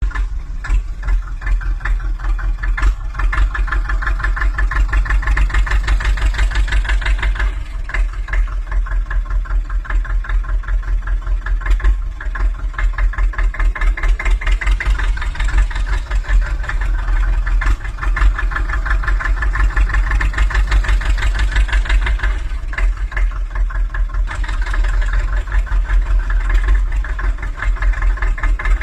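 Engine idling with a rapid, even chug and a strong low rumble, easing off slightly about eight seconds in and again near the end.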